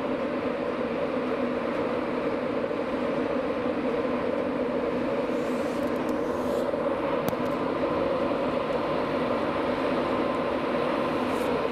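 Electric trains running at a station platform: a steady, even drone with no break, and a couple of faint clicks.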